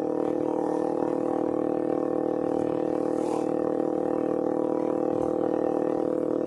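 Kawasaki Ninja 250R's carbureted parallel-twin engine running through a loud Austin Racing aftermarket exhaust, held at a steady engine speed with an even, unchanging note.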